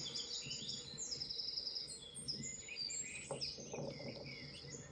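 Small songbirds chirping and trilling over and over, from a bird-watching video played for a cat on a TV.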